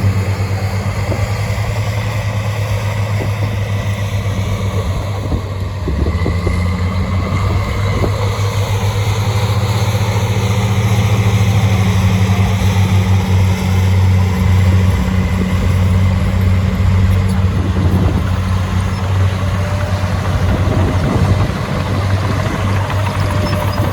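Heavy diesel engine of earthmoving machinery running steadily with a deep hum, its note shifting briefly about six seconds in and again about eighteen seconds in.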